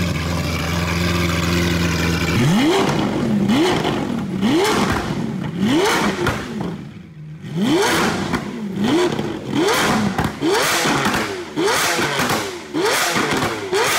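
Lamborghini Aventador SV's V12 engine, freshly started and exposed, running loud through short open exhaust pipes: a high steady idle for about two seconds, then revved in quick blips about once a second, each rising and falling back, with a brief lift-off near the middle. Exhaust pops and crackles between the revs.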